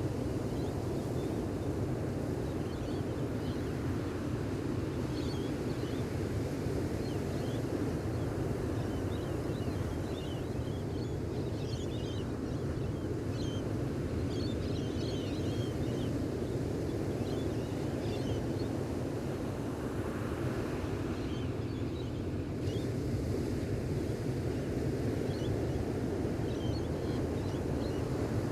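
Gentle ocean waves on a beach, a steady low rush of surf, with small birds chirping faintly on and off.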